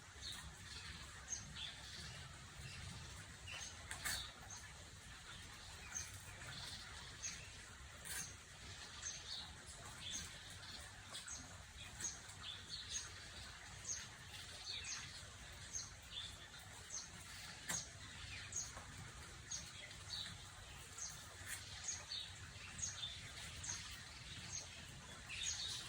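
Small birds chirping in the background: many short, high chirps at an irregular rate.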